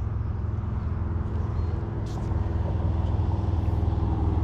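A steady low engine hum, like a motor vehicle running, growing slightly louder toward the end.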